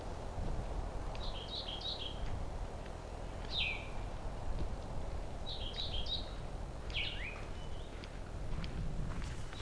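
A songbird calling twice: each time a quick cluster of high chirped notes followed by one falling note, over a steady low background rumble.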